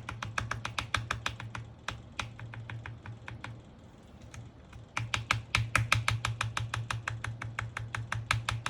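Mechanical keyboard key with a Gateron Pro Milky Yellow linear switch being pressed over and over in quick succession, about five or six clacks a second. The key is being worked so its lube spreads and its stiff travel frees up. The pressing slows briefly in the middle, then resumes faster and louder, over a low steady hum.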